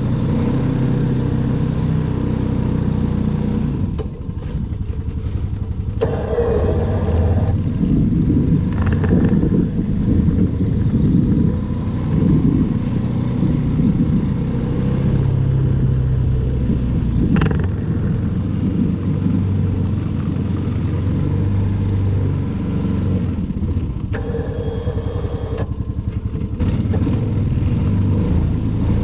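An engine running steadily, its pitch shifting now and then as the load or speed changes, with a few short scraping or rushing noises laid over it.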